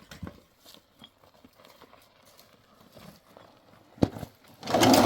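Hooves of a walking working animal knocking on the ground in scattered, uneven steps. There is a sharp knock about four seconds in, then a loud, rough sound starts shortly before the end.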